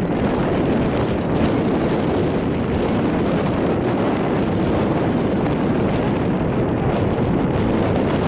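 Wind blowing across the microphone: a steady, loud, low rumbling noise with no breaks.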